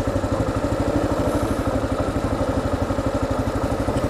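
Kawasaki KLR 650's single-cylinder four-stroke engine idling steadily with an even, rapid beat.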